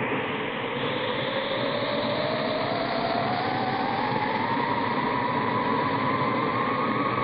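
Eerie film-logo soundtrack: a single wavering tone glides slowly upward over a steady, noisy rumble.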